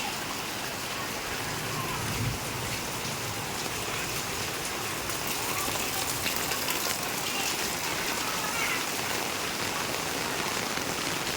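Steady rain falling, an even hiss of drops hitting surfaces.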